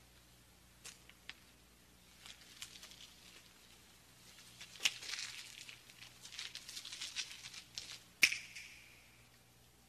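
Faint irregular clicks and crackles over a steady low hum, busier in the middle, with one sharper click about eight seconds in.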